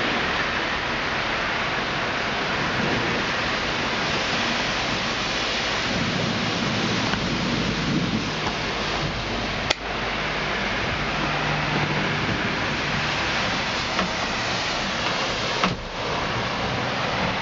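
Heavy rain pouring steadily in a thunderstorm, a dense even hiss. A vehicle goes by on the wet road around the middle, and there are two sharp clicks, one about ten seconds in and one near the end.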